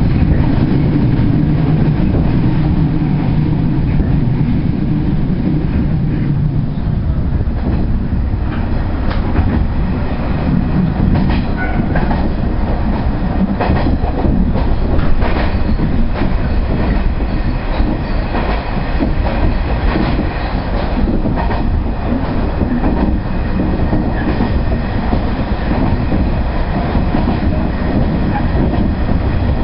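JR Central 119 series electric train running along the track, heard from inside the driver's cab: a steady rumble of motors and running gear with frequent clicks from the wheels on the rails. A deeper hum sits under it for the first six or seven seconds.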